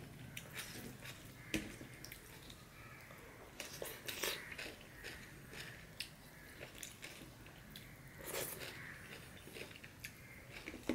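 A person chewing close to the microphone, with wet mouth sounds and crunchy bites of raw salad eaten by hand. A sharp click comes about a second and a half in, and louder crunches about four and eight seconds in.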